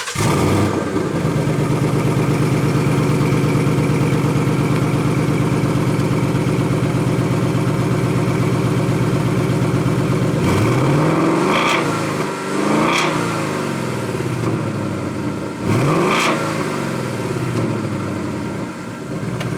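2019 Ford Mustang GT's 5.0 L V8 through its stock exhaust, starting up and settling into a steady idle. It is then revved three times, each rev rising and falling in pitch, about ten, twelve and sixteen seconds in.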